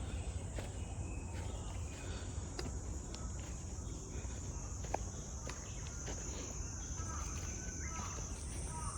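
Steady high-pitched drone of insects calling in the woods, rising a little near the end, with scattered footsteps on the trail and a few short bird chirps in the last seconds.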